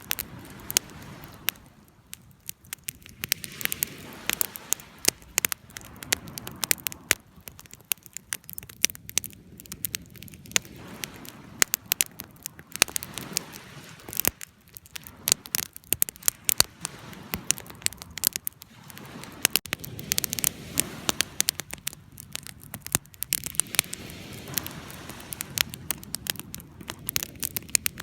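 Wood fire burning, with irregular sharp crackles and pops over a low rushing hiss from the flames that swells and fades.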